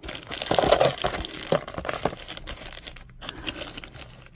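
Packaging wrapper crinkling and tearing as it is pulled off a mail-order DVD, with a busy run of crackles in the first two seconds that thins out later.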